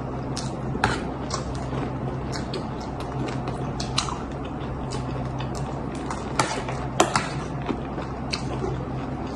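People eating chatpate, a crunchy puffed-rice snack: irregular crunching and chewing with small sharp clicks, the loudest about a second in and near seven seconds in, over a steady low hum.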